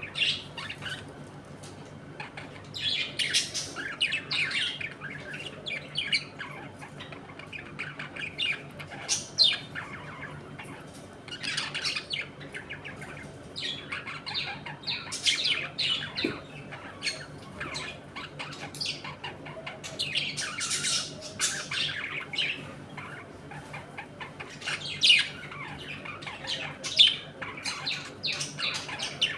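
A flock of budgerigars chattering, chirping and squawking: many short, overlapping calls in bursts that come and go.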